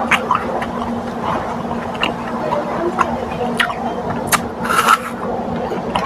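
Close-up eating sounds of a person chewing food, with many sharp, irregular mouth clicks and a brief hissy crunch about five seconds in. A steady low hum runs in the background and fades after the first couple of seconds.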